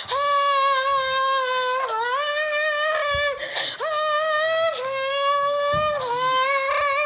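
A person's voice imitating a supercar engine. It holds a high, buzzing note that drops and climbs back up every one to two seconds, like an engine revving up through its gears.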